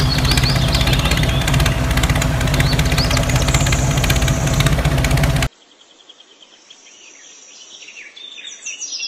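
A tractor engine running steadily with birds chirping over it. The engine cuts off abruptly about halfway through, leaving only birdsong, which grows louder toward the end.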